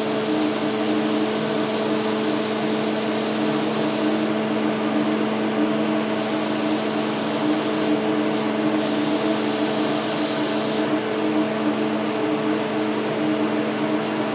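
Air spray gun hissing as it sprays automotive primer in several trigger passes: a long pass, a pause of about two seconds, then two more passes broken by a short burst, and a brief click after. A steady hum of the paint exhaust fan runs underneath.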